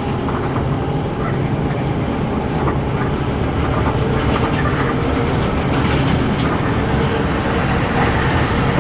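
Intercity bus on the move: a steady engine drone with road noise, joined from about four seconds in by light rattling clicks.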